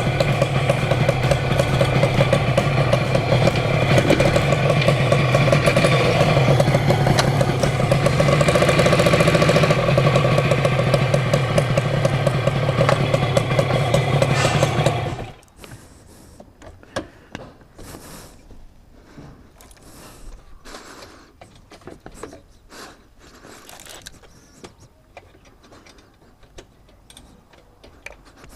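Yamaha TZR250 (1KT) two-stroke parallel-twin engine, converted to air cooling, running steadily, then shutting off abruptly about halfway through. After that there are only faint scattered clicks and small handling noises.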